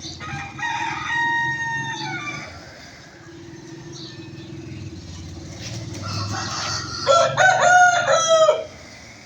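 Rooster crowing twice: a held crow in the first two seconds, then a louder crow broken into short pulses about seven seconds in.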